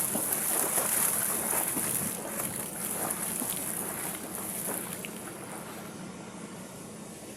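Water splashing and sloshing around a swimmer in open water, in irregular bursts that die down toward the end.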